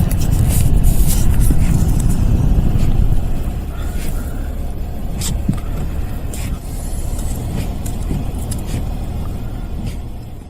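Blizzard wind buffeting the microphone: a loud, uneven low rumble with scattered sharp clicks. It eases a little about three seconds in.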